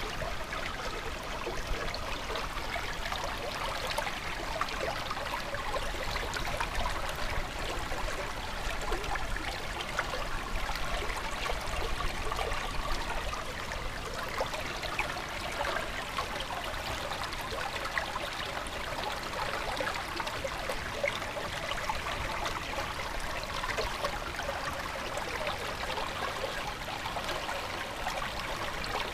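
Flowing water of a small stream, babbling and trickling steadily.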